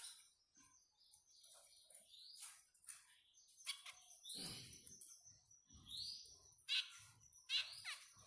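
Zebra finches calling: short, high chirps and quick falling tweets, scattered and irregular, with a few louder calls near the end. A few soft low bumps come in the middle.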